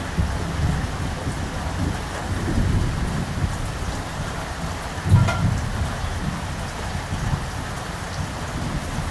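Steady heavy rain with low rolling thunder rumbling underneath, swelling into a louder peal of thunder about five seconds in.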